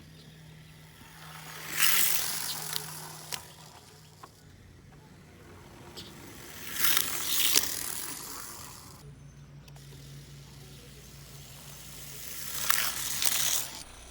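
Tiny electric motors of 1/64-scale Hot Wheels RC cars whirring past on the track, three times, each pass swelling and fading over a second or two.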